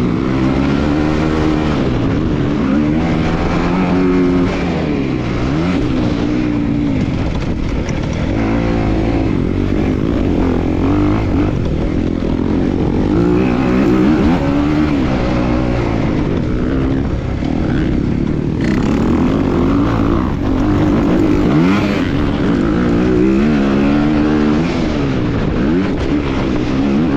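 A 250 motocross bike's engine being ridden hard. The revs climb and drop back over and over, every second or two, as the throttle is worked and the gears change.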